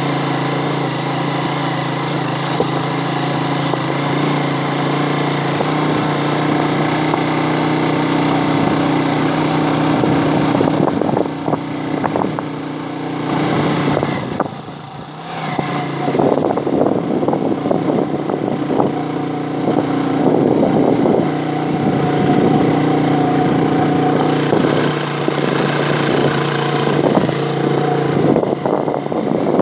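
Motorcycle engine running while the bike is ridden, at a steady pitch at first. About eleven seconds in the engine becomes uneven and eases off, dipping for a couple of seconds near the middle. It then picks up again and runs on unevenly.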